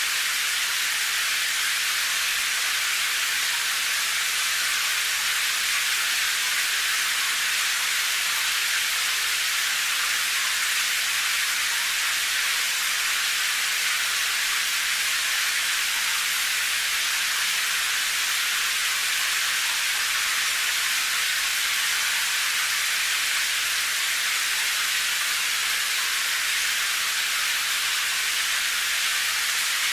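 Rain falling as a steady, even hiss, mostly high with little low rumble and no separate drops standing out.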